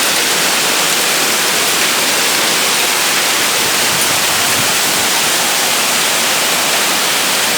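Heavy rain pouring down steadily, a dense even hiss without let-up.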